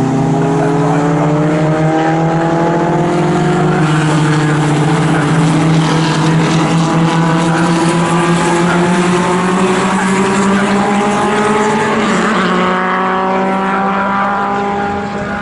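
Racing car engines of vintage sports racing cars at full throttle, several at once, their pitch climbing steadily as they accelerate past. A further car joins about three quarters of the way through, and the sound eases off near the end.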